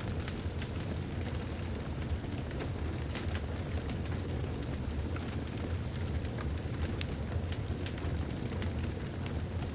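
Wood fire burning in a fireplace: a steady low rumble with scattered sharp crackles and pops, one louder pop about seven seconds in.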